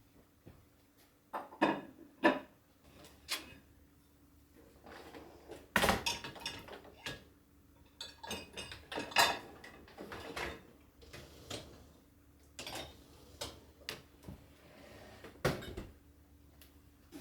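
Irregular light knocks, taps and clatter of household objects being handled and set down, with several sharper knocks scattered through, over a faint steady hum.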